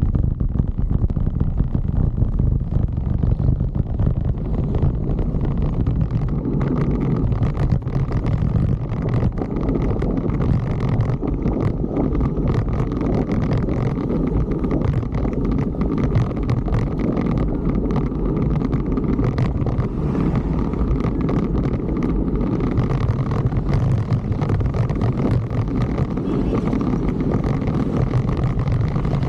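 Wind rushing over the microphone on a moving fixed-gear bicycle, with steady road and traffic noise and frequent short crackles.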